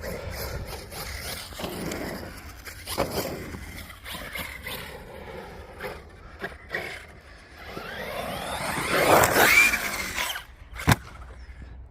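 Team Corally Kagama RC stunt truck's brushless electric motor whining up and down as it is driven, its tyres scrabbling on dirt. The whine climbs to its loudest about nine to ten seconds in, then a sharp thud near the end as the truck comes down in a harsh landing.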